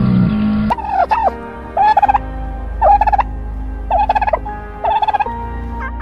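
A bird calling five times, about a second apart, each a short, fast-warbling call, over steady sustained tones. Under a second in, a low sound from before cuts off.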